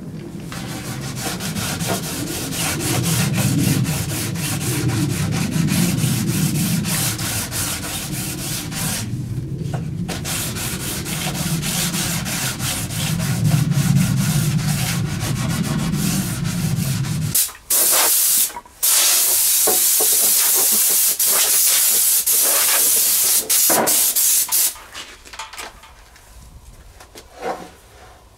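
Wood being sanded, a continuous rasping with a low rumble under it; a little over halfway through it changes abruptly to a louder, steady hiss lasting several seconds, then drops away to quiet scraping.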